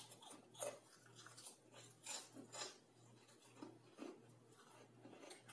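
Crunchy chewing of crisp crackers, about half a dozen short crunches with gaps between them.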